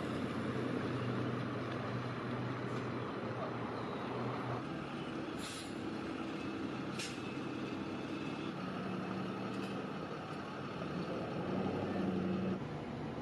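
A large vehicle's engine running steadily, with two short hisses about a second and a half apart in the middle.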